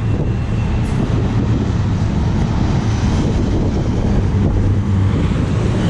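Double-stack intermodal container cars of a freight train rolling past on the rails: a steady low rolling noise of steel wheels on track, with wind buffeting the microphone.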